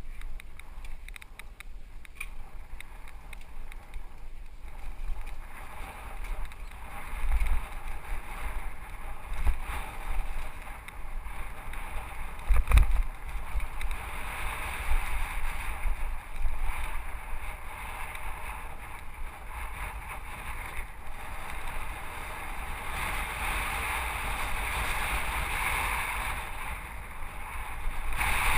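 Mountain bike riding down a rocky trail, heard from a helmet-mounted camera: a steady rush of wind and tyre noise with occasional low thumps as the bike hits rocks. The rush grows louder in the last several seconds.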